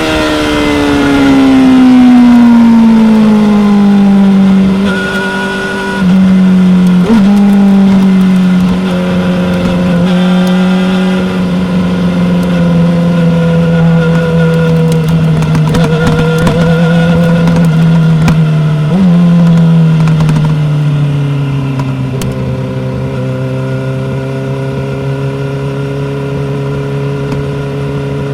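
Yamaha R6's 600 cc inline-four engine on the move, with wind noise over the microphone. Its pitch falls steadily as the bike slows over the first few seconds, then holds at a steady part-throttle hum. Two short rev spikes come about seven and nineteen seconds in, and after the second the pitch drops and settles lower.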